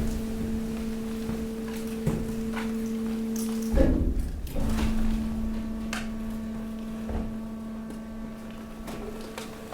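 Hydraulic waste compactor pressing mixed waste: the hydraulic pump runs with a steady hum while the load gives off scattered cracks and knocks. About four seconds in there is a heavy thump and the hum drops out briefly, then carries on.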